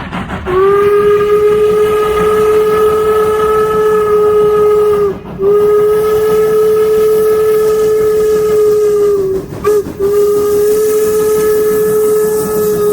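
Steam whistle of Norfolk & Western 4-8-0 locomotive No. 475 blowing long, long, short, long, the grade-crossing signal. Each long blast lasts about four to five seconds on one steady pitch. The last long blast is still sounding at the end.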